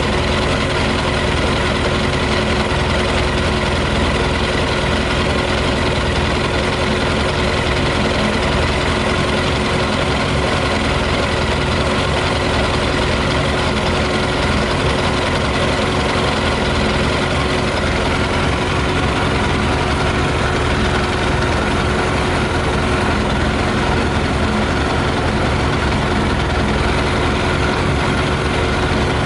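Yamaha YZF600R motorcycle's carbureted inline-four engine idling steadily, running on 40% whisky in the tank instead of petrol.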